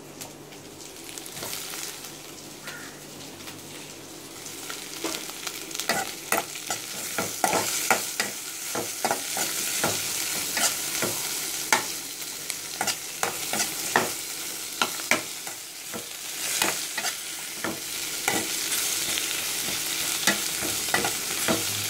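Sliced onions, tomatoes and green chillies frying in oil in a metal kadai, sizzling steadily while they are stirred, the utensil scraping and clicking against the pan many times. The sizzle and stirring get louder after about five seconds.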